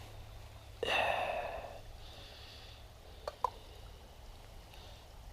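A short breathy rush about a second in, then two sharp clicks a fraction of a second apart as a lighter is struck to light an MSR Reactor camp stove.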